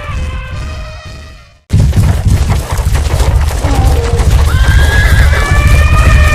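Sound-effect track of running animals: a high animal call fades out, then after a sudden cut a dense, loud pounding of galloping hooves starts, with a long high call rising and then held from about the middle on.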